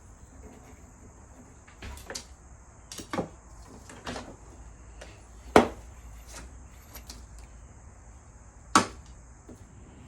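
Tent pole sections being handled and taken apart, giving a few sharp, irregular clicks and knocks; the loudest comes about five and a half seconds in, another near the end.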